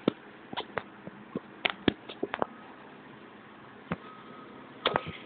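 Sharp, irregular clicks and taps, with a faint repeating beep starting about halfway in, typical of a truck's reversing alarm.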